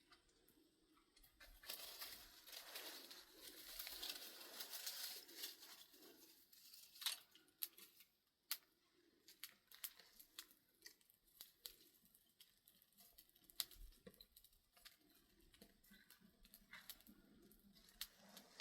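Faint rustling and crackling, with scattered sharp clicks and snaps.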